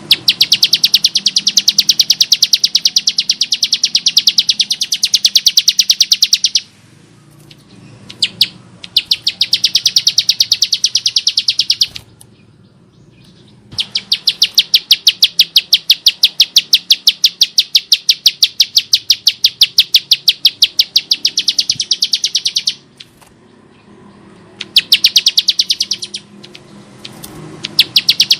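Bar-winged prinia (Prinia familiaris) singing its harsh, rapid song of evenly repeated high chipping notes, in four long bouts broken by short pauses.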